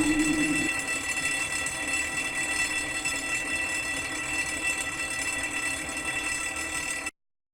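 A long ringing tone with many steady overtones, slowly fading, the tail of a loud strike just before. It cuts off abruptly about seven seconds in.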